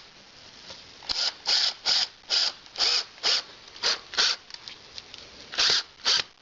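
A hand tool rasping in quick back-and-forth strokes, about two a second, as metal hardware is worked for the fireplace door frame. There is a pause, then two more strokes near the end.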